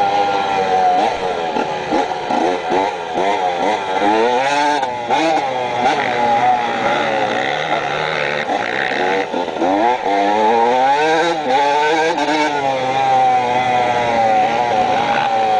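Dirt bike engine being ridden, its revs rising and falling again and again as the throttle is worked.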